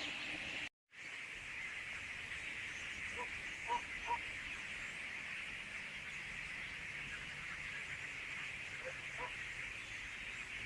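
Large flock of common starlings chattering together as a steady dense din. The sound cuts out for a moment about a second in, and a few short, lower calls stand out a few seconds in and again near the end.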